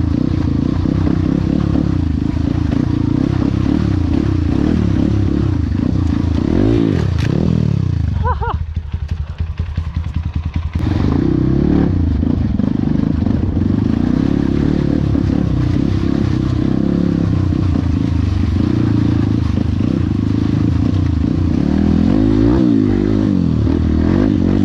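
Trail motorcycle engine running while being ridden, its revs rising and falling. About eight seconds in the engine drops off for a few seconds, then comes back in sharply about eleven seconds in.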